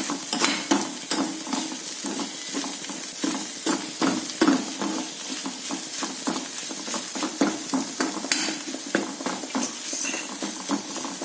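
Sliced onions with ginger-garlic paste sizzling in hot oil in a pan as they are sautéed until well browned. A spatula stirs them, making repeated irregular scrapes and knocks against the pan over the steady sizzle.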